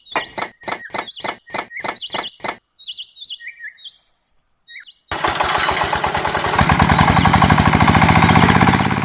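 Bird chirps with quick rising and falling notes over a rapid run of about nine sharp knocks, then a loud buzzing noise with a low drone and fast pulsing that starts suddenly about five seconds in and swells.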